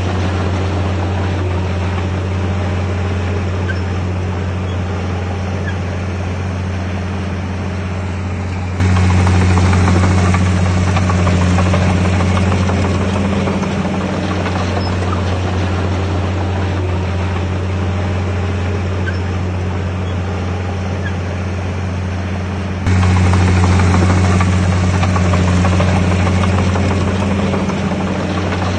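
Bulldozer's diesel engine running steadily with a deep, even drone. It jumps suddenly louder about nine seconds in and again about 23 seconds in, then eases back each time.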